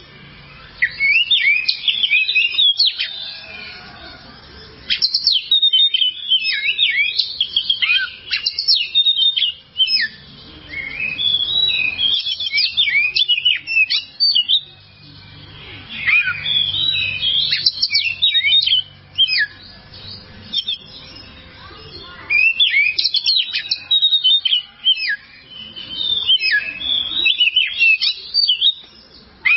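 Oriental magpie-robin (kacer) singing: phrases of rapid, varied whistles and chirps a few seconds long, broken by short pauses.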